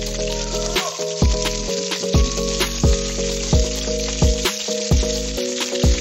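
Frog meat frying and sizzling in hot oil in a wok, a steady hiss, over background music with a steady beat.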